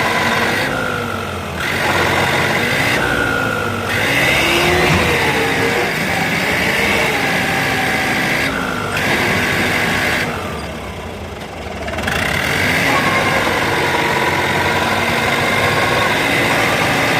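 Mahindra Turbo 595 tractor's diesel engine running under load, its revs rising and falling again and again, as the stuck tractor strains to get free. The sound eases briefly a few times, longest about ten seconds in.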